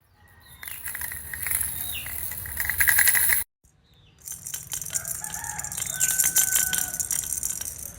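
Baby's toy rattles shaken, a fast dense clattering with a few short squeaky tones over it. It cuts off abruptly a little over three seconds in and starts again about a second later.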